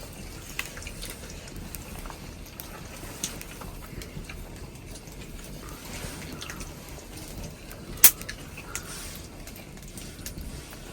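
Steady rain with scattered drips ticking irregularly; one sharp, louder tick about eight seconds in.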